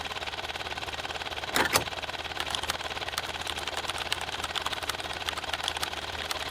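Small electric motor of a DIY mini tractor running steadily with a rapid, even whirr, a short loud clatter about a second and a half in, then scattered sharp clicks.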